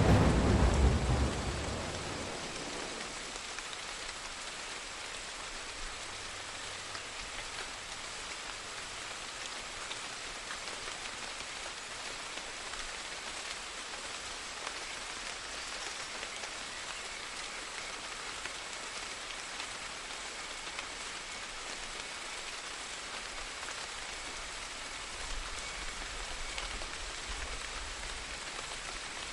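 Steady rain falling, an even hiss. A loud thunderclap dies away over the first two seconds, and a faint low rumble of thunder swells about 25 seconds in.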